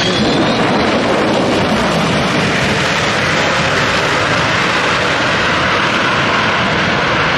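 Boeing 727 jet airliner's three JT8D turbofan engines running loud and steady during a display flight, a dense even jet rumble and hiss that grows slightly brighter near the end.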